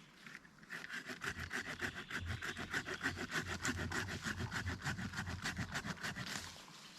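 Saw cutting through wood, likely a small tree trunk, with quick even back-and-forth strokes that start about a second in and stop near the end.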